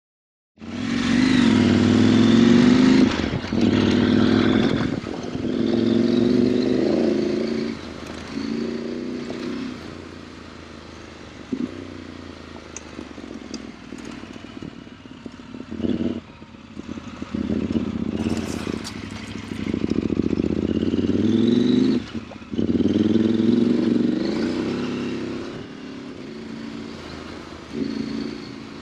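KTM 890 Adventure R's parallel-twin engine pulling hard in a series of accelerations, each rising in pitch and then dropping off as the throttle closes or the gear changes. Quieter, steadier running in the middle and near the end, with some clatter mixed in.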